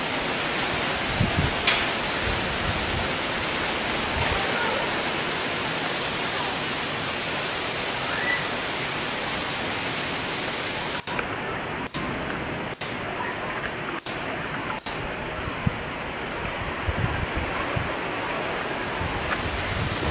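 Heavy rain pouring down in a steady, even hiss. Five times near the middle the sound cuts out for an instant.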